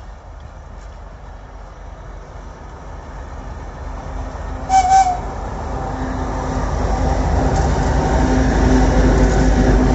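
A train approaching and growing steadily louder, with a short horn blast just before halfway.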